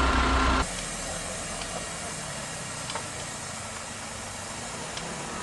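A truck's diesel engine idling, cut off abruptly about half a second in, leaving a steady hiss of background noise with a few faint clicks.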